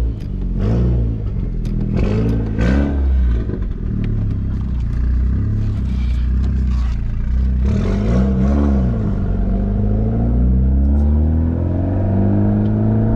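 Mitsubishi Lancer Evolution X's turbocharged 2.0-litre four-cylinder (4B11T) heard from inside the cabin while driving. Its pitch rises and falls briefly a few times, then climbs steadily from about ten seconds in as the car accelerates.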